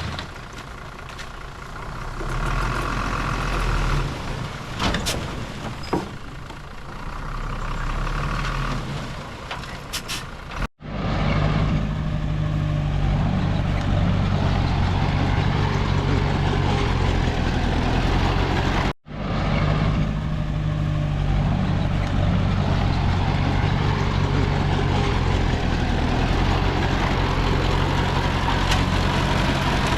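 Diesel engines of a bulldozer and dump trucks at work, with a few sharp knocks in the first part. After two abrupt cuts, a steady low heavy-engine drone.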